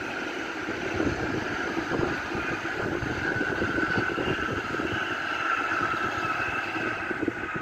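Shinkansen high-speed train passing at speed: a steady rushing rumble with a high tone running through it.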